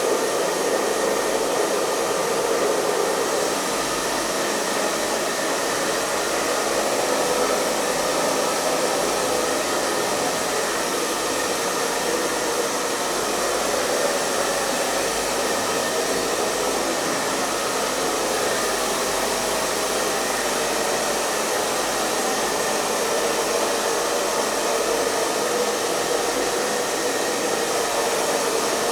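Hair dryer running steadily: an even rush of blown air and motor whine with no changes in speed or pitch.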